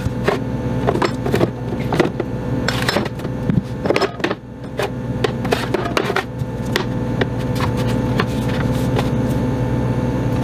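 Small glass jars and containers clinking and knocking as they are moved about and set down on refrigerator shelves, a rapid run of clicks that thins out after about seven seconds. A steady hum runs underneath.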